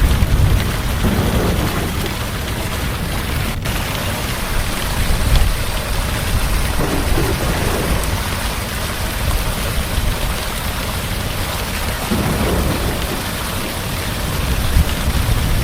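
Heavy rain falling steadily, with low rolls of thunder rumbling up several times.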